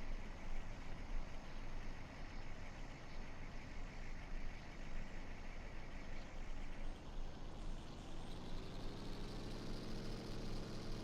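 Truck engines running. About eight seconds in, one engine comes in louder, its pitch rising slowly.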